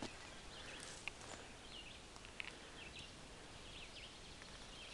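Faint bird chirps, a handful of short calls scattered through, over quiet woodland background, with a few light clicks.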